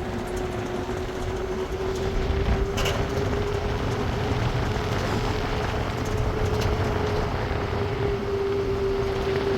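A vehicle on the move: steady engine and road noise with a constant hum.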